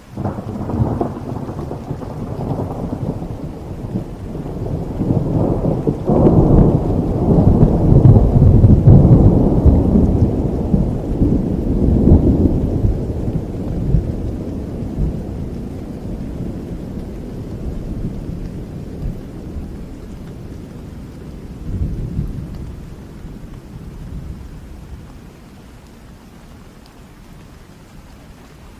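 A long roll of thunder over steady rain: it breaks suddenly at the start, rumbles louder to a peak about eight or nine seconds in, with a smaller swell a little past twenty seconds, then fades back to the rain.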